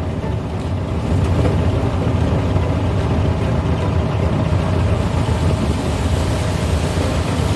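Steady low drone of a 1970s Volkswagen's engine and tyre noise while driving on a wet road, getting slightly louder about a second in.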